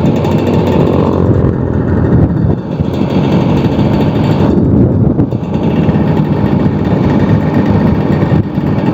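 Old two-stroke Vespa scooter engine running steadily under way while riding along the road.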